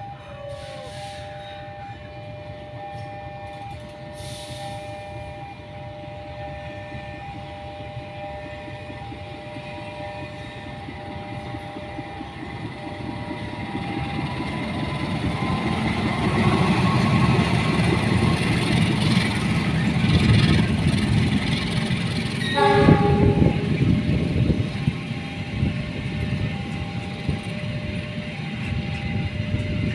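A train approaches and passes, its rumble growing louder from about twelve seconds in, with a short horn blast about three-quarters of the way through. Before the train arrives, a steady two-tone signal repeats with short breaks.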